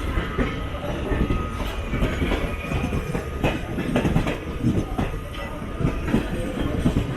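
Passenger train wheels clattering over rail joints and pointwork, an irregular run of knocks over a steady rumble, as the train runs onto the main-line tracks into the terminus.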